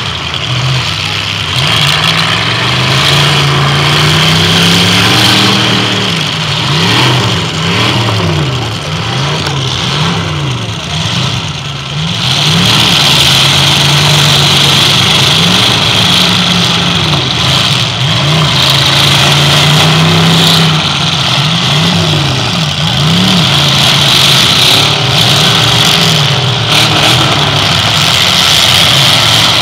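Demolition derby car engines, several at once, revving up and down over and over, with a steady high hiss that grows stronger about halfway through.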